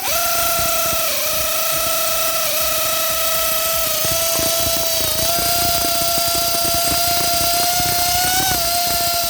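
Handheld electric power tool motor running at a steady high whine. Its pitch dips briefly a few times as the load changes, then it cuts off at the end.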